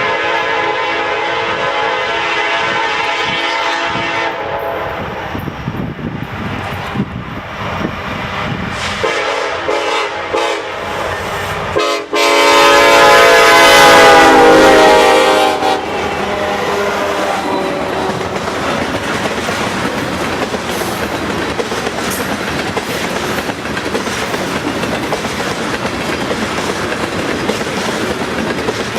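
Diesel locomotive horn sounding three blasts: a long one at the start, a shorter one about nine seconds in, and the loudest one about twelve seconds in, lasting some four seconds. The train then rolls past with steady rail noise and clickety-clack of the cars.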